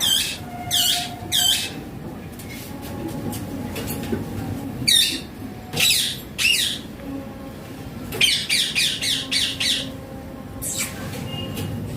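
Indian ringneck parakeet giving shrill squawking calls: a pair near the start, a few more around the middle, then a fast run of short calls about eight seconds in and one more near the end.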